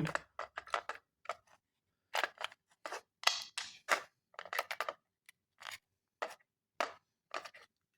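Irregular sharp clicks and light scrapes of a small plastic alarm clock being handled, some close together and some a second or more apart.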